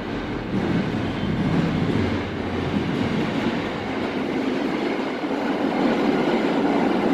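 Train going by on its rails: a dense, steady rumble that swells about half a second in and holds.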